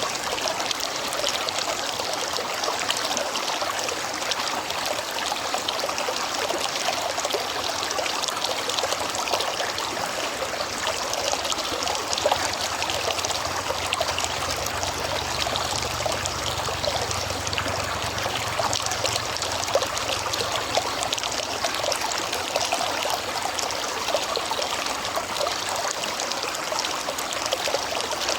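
River water flowing, a steady rushing and trickling that holds even throughout.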